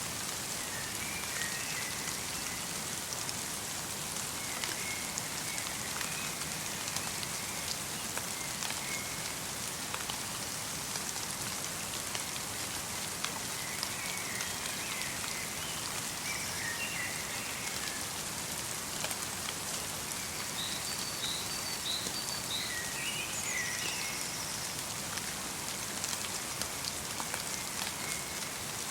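Light rain falling steadily in a forest, a close patter of many small drops, with small birds calling now and then in short high chirps.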